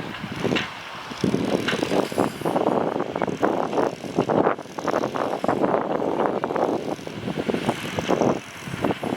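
Yanmar tractor's engine running under load while plowing, a rough, uneven rattle that rises and falls in level.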